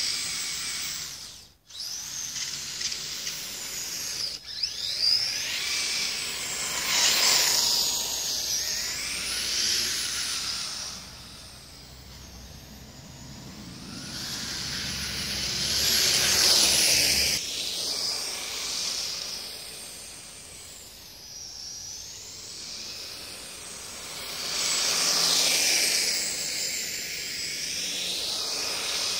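Electric drive motors and gearing of a twin-chassis RC tracked vehicle, built from two Kyosho Blizzard chassis, whining as it drives. The pitch rises and falls with the throttle, with louder surges several times and a steady hiss underneath.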